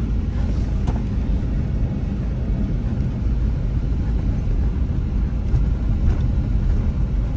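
Car driving along, a steady low rumble of engine and road noise heard from inside the moving car.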